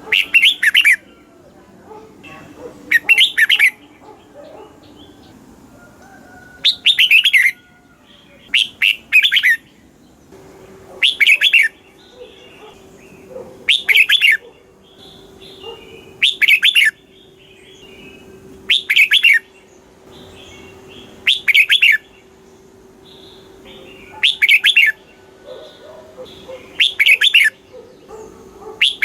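Red-whiskered bulbul singing short, bright, warbling phrases, one roughly every two and a half seconds.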